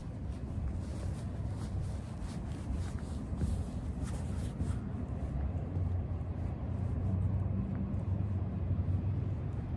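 Low, steady engine rumble that grows a little louder about halfway through.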